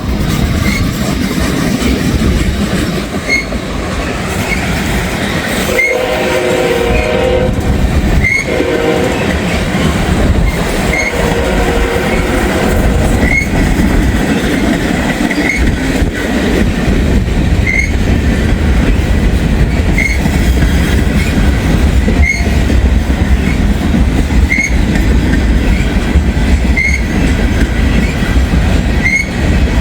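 Freight train rolling past close by: a steady low rumble with wheels clattering over rail joints. A locomotive horn sounds about six seconds in, followed by a short second blast, over a faint high ding repeating about every second and a half.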